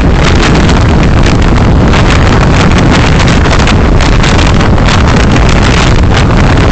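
Loud, steady driving noise from a moving car, road and engine rumble mixed with wind buffeting on the dashcam's microphone.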